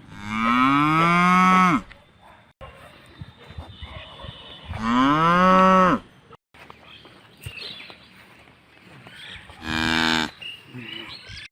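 Cows mooing: three loud moos, the first two long calls that rise and then fall in pitch, the third shorter and higher about ten seconds in.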